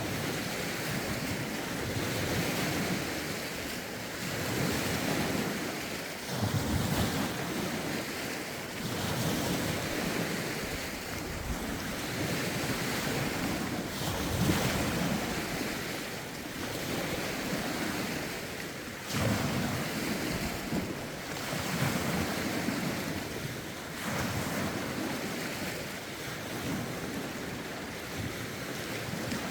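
Lake waves washing ashore in a steady run of swells every few seconds, with gusty wind buffeting the microphone.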